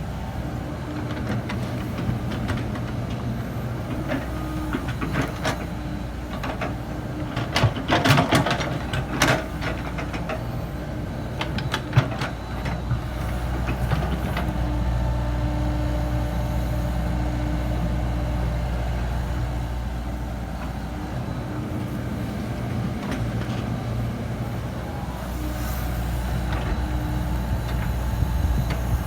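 Komatsu PC70-8 excavator's diesel engine running steadily, working harder about halfway through and again near the end. Metallic clatters come a little before halfway, with a single sharp knock just after.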